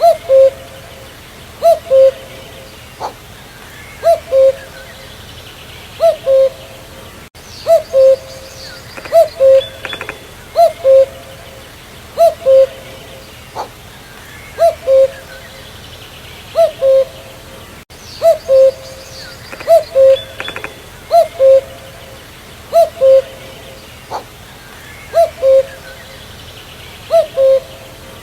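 Common cuckoo calling its two-note "cu-coo" over and over, a higher note dropping to a lower one, repeated about every one and a half to two seconds, with faint chirps of other birds behind it.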